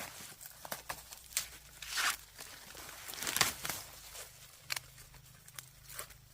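Dry plant material rustling and tearing by hand, with scattered sharp snaps and clicks and louder rustling bursts about two and three and a half seconds in.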